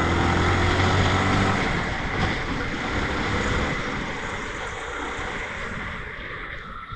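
Motorbike on the move: engine hum under a steady rush of wind over the microphone, fading gradually toward the end.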